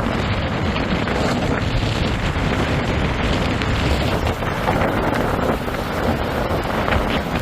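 Strong wind buffeting the microphone, a loud, steady rushing noise with no let-up.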